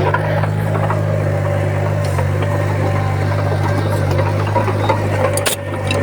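Komatsu bulldozer's diesel engine running steadily with a low drone, and a single sharp click about five and a half seconds in.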